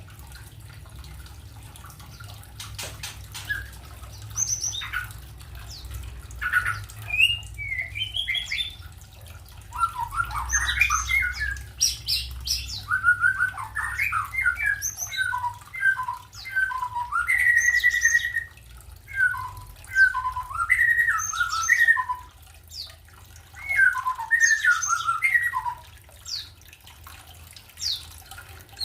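Small aviary birds squawking and chirping over and over, with short, sharp calls that come sparsely at first and then crowd together from about a third of the way in.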